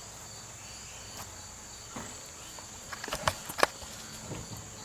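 A few sharp metallic clicks and knocks about three seconds in, from a removed lower A-arm bracket of a Rolls-Royce Phantom III's front suspension being handled. A steady high-pitched hum runs underneath.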